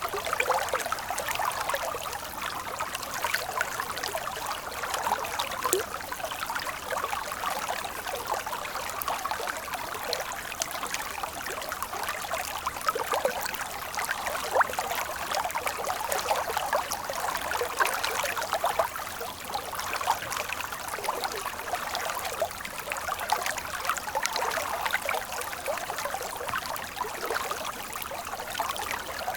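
Stream water flowing steadily, trickling and splashing without a break, the sound sitting in the mid and high range with little deep rumble.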